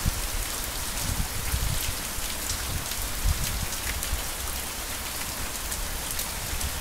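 Heavy rain falling steadily, many single drops ticking sharply over a continuous hiss, with a low rumble and a few soft thumps underneath.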